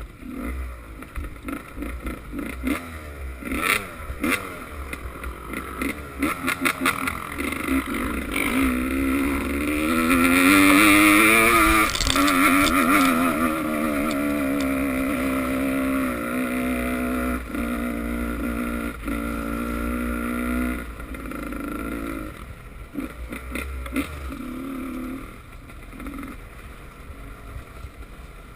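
Motocross motorcycle engine revving up and down as the bike rides past, loudest about ten seconds in, then held at steady revs for several seconds before dropping away near the end.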